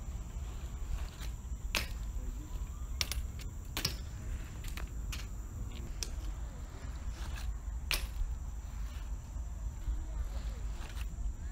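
Steady low rumble of wind buffeting the microphone, with about five sharp clicks or knocks scattered through it, the clearest about two and eight seconds in.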